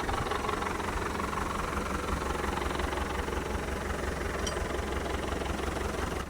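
Engine of heavy construction machinery running steadily with a low, even rumble.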